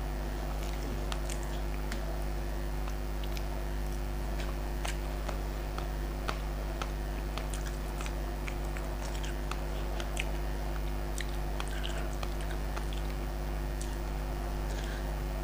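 Close-miked chewing and wet mouth sounds of someone eating rice and fish curry by hand, with many small scattered clicks and smacks. A steady low hum runs underneath.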